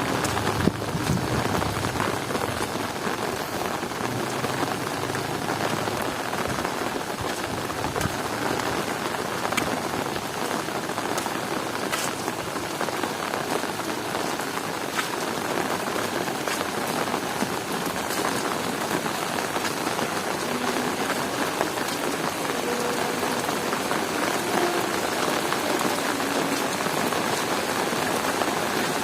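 Heavy rain falling steadily, a dense even hiss with scattered sharp drop taps.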